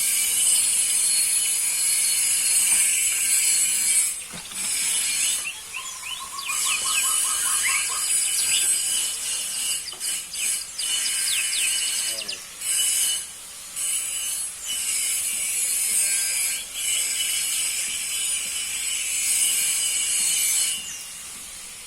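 Domestic canary singing long, fast rolling trills, broken by short pauses, with a run of quick lower whistled notes partway through; the song stops near the end.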